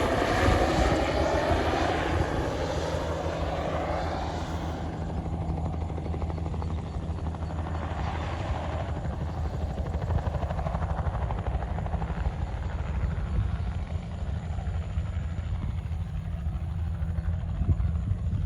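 Crop-spraying helicopter flying past with its rotor beating. Its pitch falls over the first few seconds as it passes and draws away, then the sound goes on steady and somewhat quieter.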